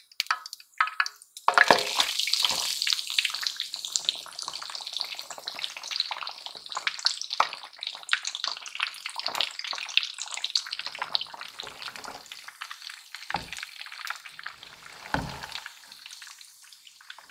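Breaded chicken deep-frying in hot oil: a dense sizzle and crackle starts suddenly about a second and a half in, then slowly thins out. A low thump comes near the end.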